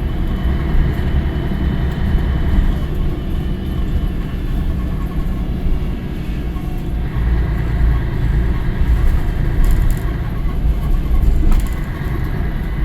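Scania L113 bus's 11-litre straight-six diesel running, a deep steady rumble that swells and eases. A higher whine rides over it for the first few seconds and again from about seven seconds in.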